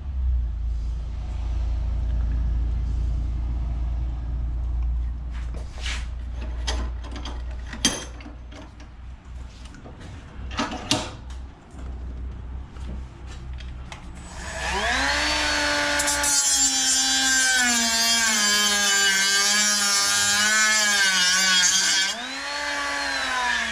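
A few handling knocks, then a handheld power tool spins up and cuts into metal scrap, its motor note sagging and wavering under load for about eight seconds, rising again as it comes free and then stopping.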